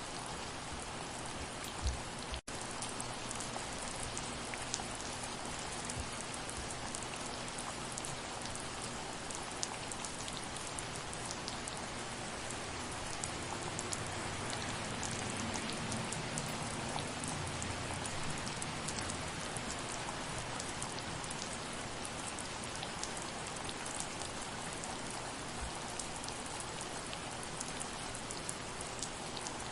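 Steady soft rain falling on surfaces, with individual drops ticking through a constant hiss. A momentary gap in the sound comes about two seconds in.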